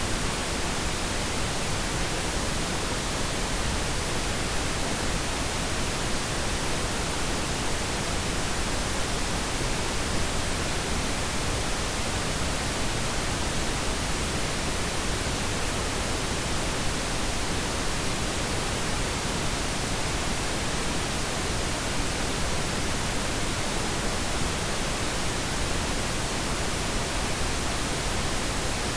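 Steady pink noise: a continuous, even hiss spread across all frequencies, softer in the highs than white noise, with no changes.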